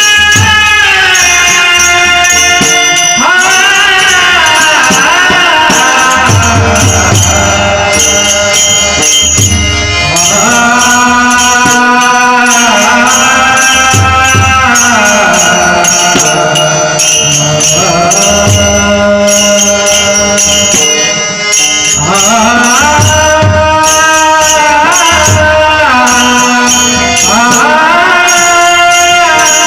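Marathi abhang devotional music: a melody line that holds and glides between notes, over steady jingling percussion and low drum strokes.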